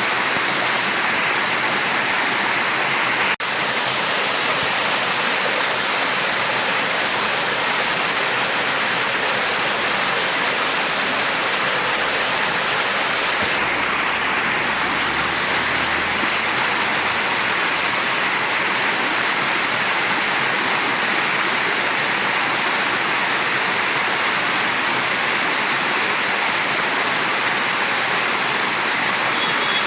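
Mountain stream rushing and splashing over rocks, a steady, unbroken wash of water noise, with a momentary dropout just over three seconds in.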